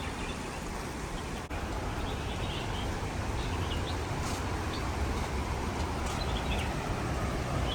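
Small birds chirping now and then over a steady rushing noise with a heavy low rumble.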